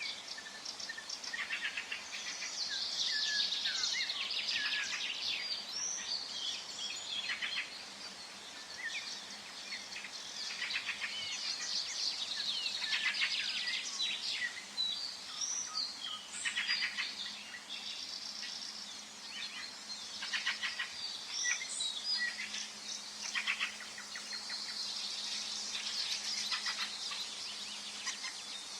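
Forest birds singing: several songbirds overlap with short chirps, whistles and rapid trills, over a steady background hiss.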